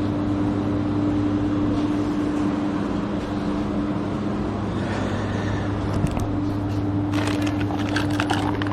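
A steady low mechanical hum holds one pitch throughout. From about six seconds in it is joined by bursts of light clicking and rattling.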